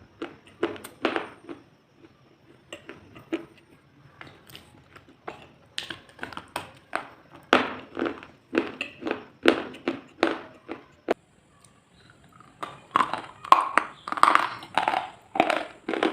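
Crunching of something brittle being crushed or bitten, in short strokes: soft and scattered at first, then regular at about two crunches a second, and after a brief pause a denser, louder run of crunches.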